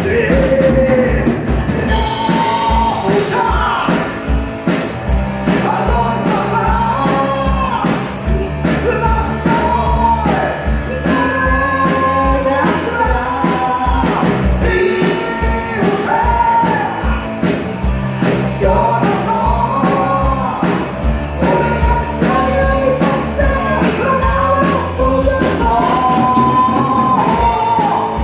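Rock band playing live, with singing over a steady drum beat, bass and electric guitars.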